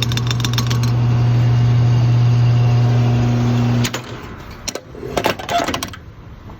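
A 2000 Audi S4's twin-turbo V6 runs at a steady engine speed, giving a constant low hum that cuts off abruptly about four seconds in. A few scattered clicks and knocks follow.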